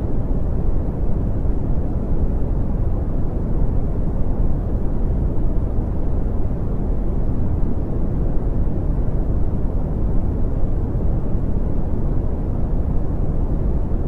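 Brown noise: a steady, deep rumbling hiss, strongest in the low end and fading toward the highs, with no changes or events.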